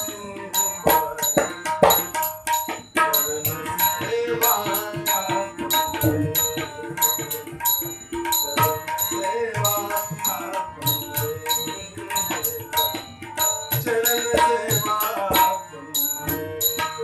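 Instrumental interlude of a Marathi devotional bhajan: tabla and small ringing hand cymbals keep a quick, steady rhythm under a melody line.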